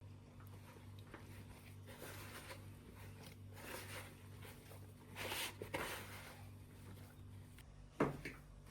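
Faint handling and rustling noises, with a louder scraping stretch about five seconds in and a single sharp knock near the end.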